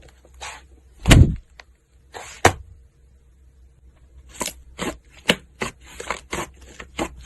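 Slime being handled: a series of sharp clicking and popping sounds, with a heavier thud about a second in and a quick run of crackly pops in the second half.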